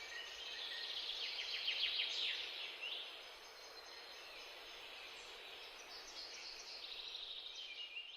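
Several birds chirping and trilling with short high calls over a steady background hiss.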